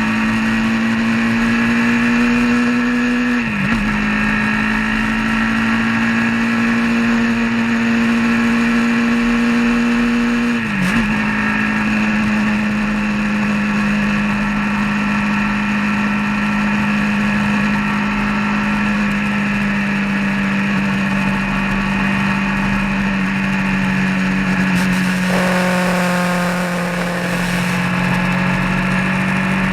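Vehicle engine running steadily at cruising speed, heard from on board. The engine note drops sharply and picks back up twice in the first part, and near the end it briefly takes on a brighter, busier tone with added hiss.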